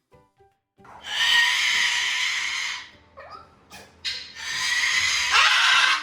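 Parrot screaming: two long, loud, harsh screams of about two seconds each, with a few shorter sliding calls between them.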